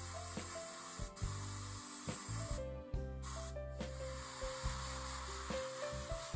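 Airbrush spraying paint with a steady hiss, cut off briefly twice, about two and a half and three and a half seconds in. Background music with a stepping bass line plays under it.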